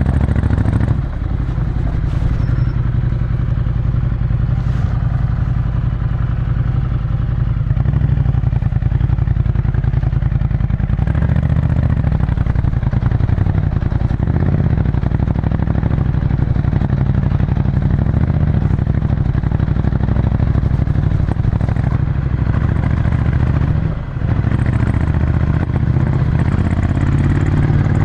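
Ducati Scrambler Desert Sled's 803 cc air-cooled L-twin running under way through a full Termignoni exhaust. The engine note dips briefly about a second in and again near the end.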